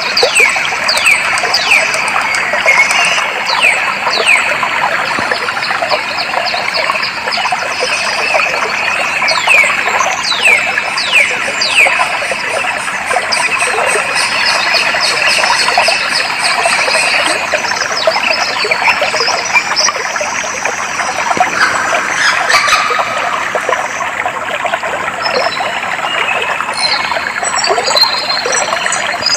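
Water flowing steadily, with a bird giving repeated quick falling whistles through the first half and higher chirps near the end.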